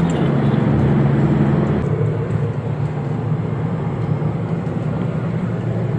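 Toyota camper van's engine running with road noise, heard from inside the cab while driving. The engine note drops slightly and gets a little quieter about two seconds in.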